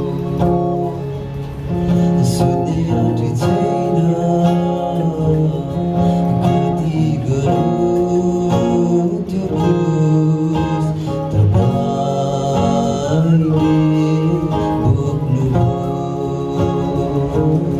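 A Christian hymn sung to acoustic guitar strumming.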